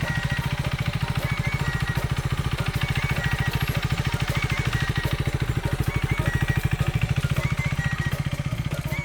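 Motorcycle engine running steadily at low revs, a fast even putter, with background music playing over it.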